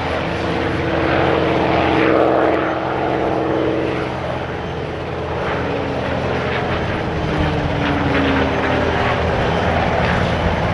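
Merlin V12 engine of a P-51 Mustang running steadily, loudest about two seconds in, its pitch sliding slowly downward in the middle of the stretch.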